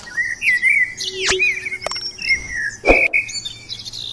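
Sumatran betet parakeet calling in a run of short, gliding chirps, with a few sharp clicks and one loud knock about three seconds in.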